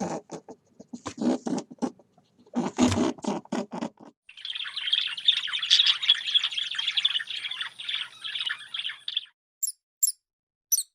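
Animal calls: several short harsh bursts, then about five seconds of dense, rapid high-pitched chirping that stops suddenly, followed by a few brief high chirps near the end.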